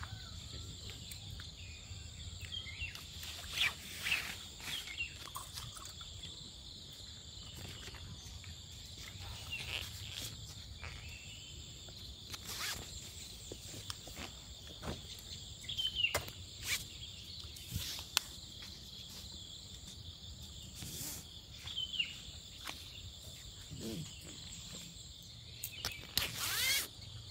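Steady high-pitched chorus of crickets and other insects, with scattered light clicks and knocks throughout.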